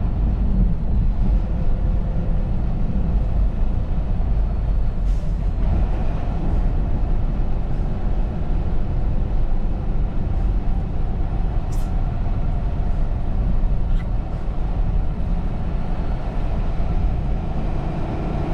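Semi truck driving: a steady low engine and road drone, with a few faint ticks.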